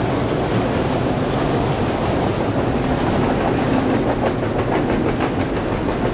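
Autorack freight cars of a passing freight train rolling by with a steady rumble. In the second half the wheels click over the rail joints in a quick even run.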